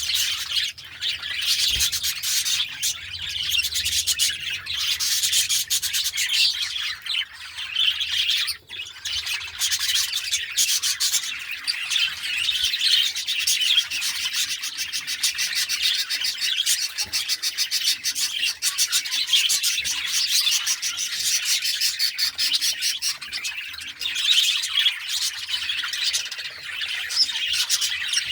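A flock of budgerigars chattering and twittering continuously, many birds calling over one another in a dense, rapid warble.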